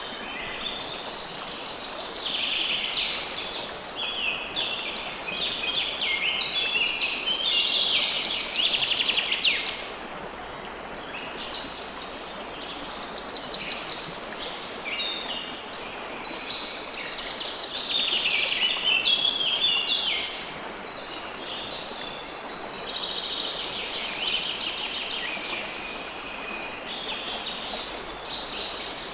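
Songbirds singing in fast, trilling phrases that come in bouts with short pauses, over the steady rush of flowing river water.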